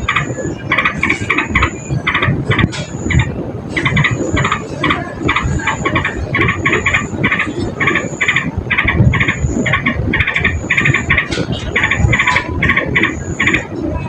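Yellow-vented bulbul (trucukan) calling: short chattering chirps repeated about twice a second, with a thin high note about once a second.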